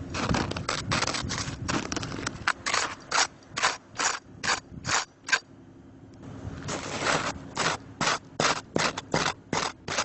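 A hand tool scraping and chipping hardened, icy snow off a truck in quick repeated strokes, about two to three a second, with a short pause about halfway through.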